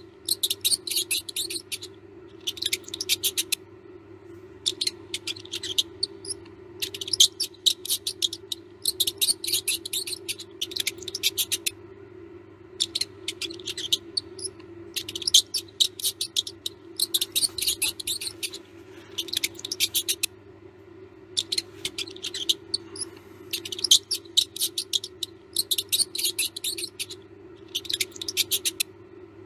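Mouse squeaks in rapid high-pitched bursts, each burst about a second long and repeating with short pauses, over a steady low hum.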